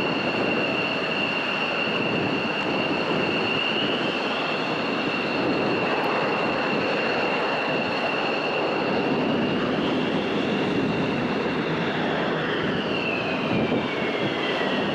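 Helicopter running with a steady high turbine whine over a constant rushing engine noise; near the end a second whine falls in pitch.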